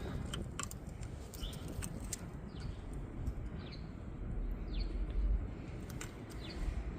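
Scattered light clicks and taps of small metal brake parts being handled on a caliper, over a steady low rumble. A bird gives several short falling chirps from about the middle on.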